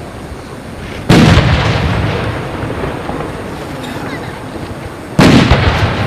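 Two aerial firework shells bursting about four seconds apart, each a sharp bang that rolls away in a long echo, over a steady background of display noise.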